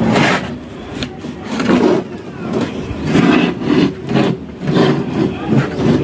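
Bass-heavy audio playing through a just-repaired Intex home theatre subwoofer as a sound test, with a regular beat about every three quarters of a second.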